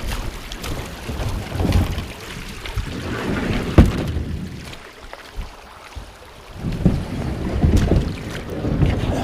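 Wind gusting on the microphone in irregular low rumbles, with a single sharp knock just under four seconds in and a brief lull a little after.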